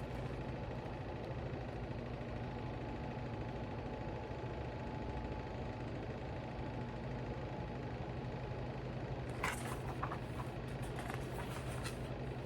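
Steady low hum of a motor running, with a few short soft clicks or rustles about ten seconds in.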